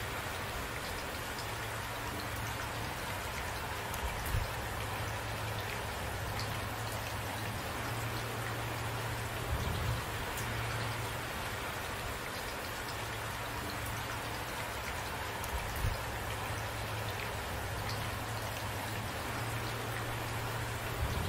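Steady rain falling, with a low rumble that comes and goes underneath and a few soft low thumps about every six seconds.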